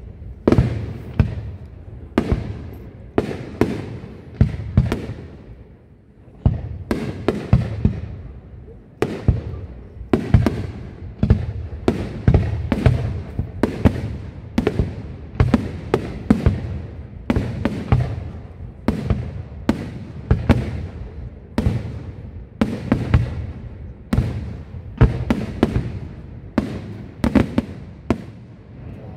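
Aerial fireworks shells bursting one after another in a steady barrage, about one to two bangs a second, each trailing off in a short echo.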